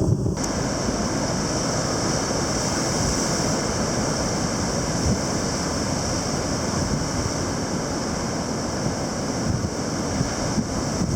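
Heavy surf in typhoon conditions, with strong wind blowing across the microphone: a loud, steady rush of noise.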